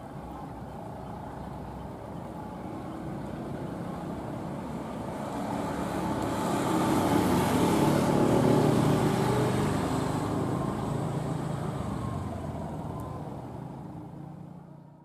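Passenger train running on the rails, steady noise growing louder to a peak about halfway through, then dying away. The sound drops out near the end.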